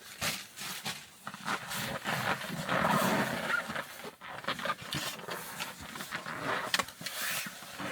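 Dry bark and firewood being handled: a run of rustling, crackling and small knocks, busiest about three seconds in.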